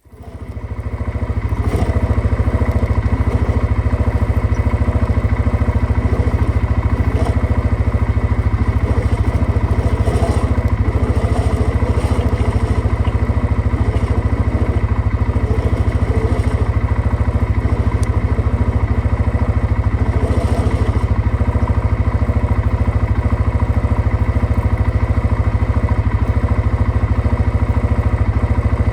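An engine running steadily at an even speed, a deep rapid pulsing that fades in over the first couple of seconds and then holds without revving.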